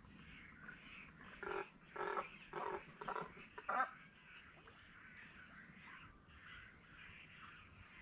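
A bird giving five short, harsh, crow-like calls in quick succession about two seconds in.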